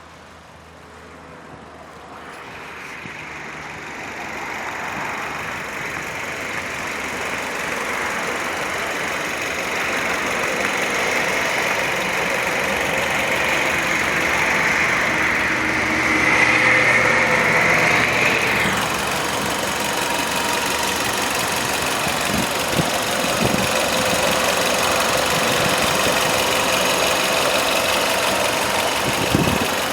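Chery Tiggo's 1.6-litre naturally aspirated inline-four engine running steadily. It grows louder over the first several seconds and has a brief louder, brighter stretch just past halfway that cuts off suddenly.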